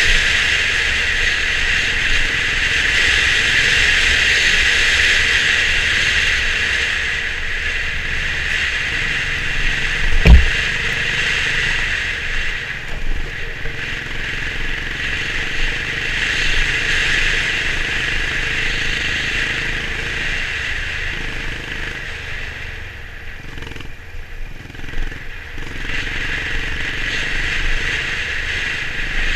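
Honda CB350 RS single-cylinder motorcycle on the move: steady engine, wind and road noise. One sharp thump about ten seconds in is the loudest moment. The noise eases for a few seconds a little past twenty seconds, then picks up again.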